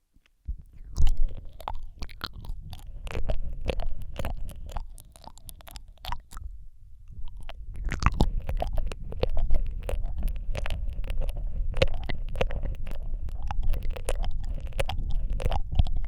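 Close-up ASMR mouth sounds into a Rode microphone: rapid wet lip smacks and tongue clicks with a low rumble underneath. They start about half a second in, ease off briefly around the middle, then continue densely.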